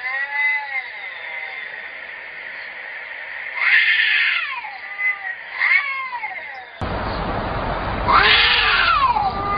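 Cats yowling at each other in long, wailing calls that rise and fall in pitch, about four of them spread through the stretch. About seven seconds in, a steady background noise begins abruptly under the calls.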